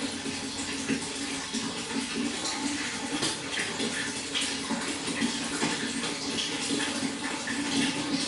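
Water running and splashing steadily, like a small stream of water pouring into a fish pond, with many little splashes throughout.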